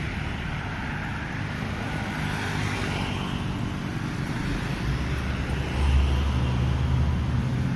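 Road traffic going past: engine hum and tyre noise, with a vehicle passing close about six seconds in, the loudest moment.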